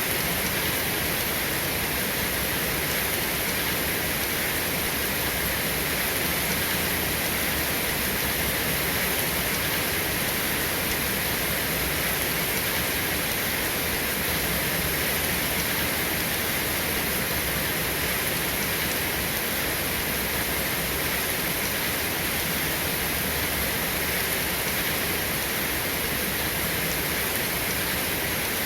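Steady rain falling, an even hiss that stays the same throughout, with no thunder or single drips standing out.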